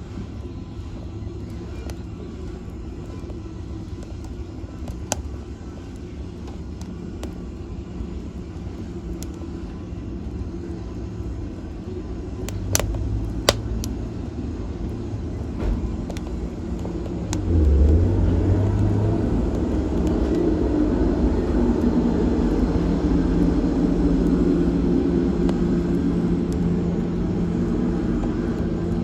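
Wood fire burning in a fireplace: a steady low rumble with a few sharp crackling pops. The fire grows louder a little past halfway through.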